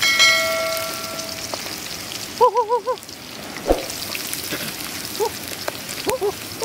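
Rice and vegetables sizzling as they fry in a metal wok over a wood fire, a steady hiss throughout. At the very start a bright ringing chime fades over about a second and a half. Short wavering calls come about halfway through, with a few brief rising ones near the end.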